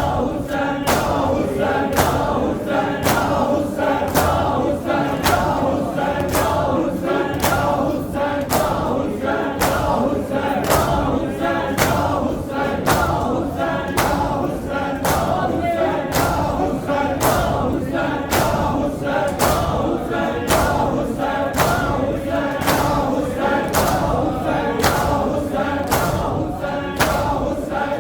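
A crowd of mourners chanting a noha in unison while beating their chests in matam, the sharp slaps keeping a steady beat of about one and a half a second.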